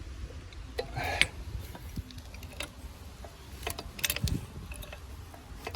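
Irregular sharp metallic clicks and ticks from a jack and homemade press rig as force is applied to press a hub into a propeller.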